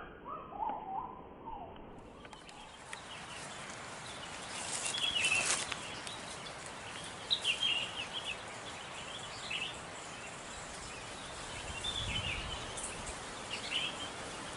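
Small birds chirping in short high calls every few seconds over a steady outdoor hiss, with a brief louder noise about five seconds in.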